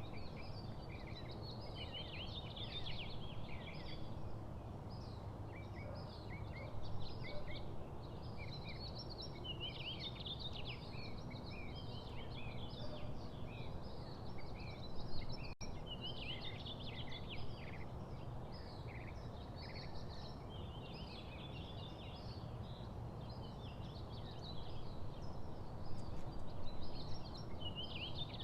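Small songbirds chirping and chattering in dense, overlapping short calls, over a steady low background rumble.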